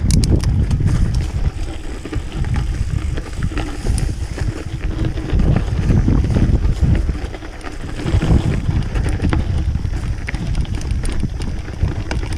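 Wind buffeting the microphone of an on-board camera on a moving mountain bike, a loud rumble that rises and falls, with scattered clicks and rattles from the bike and tyres on the dirt trail.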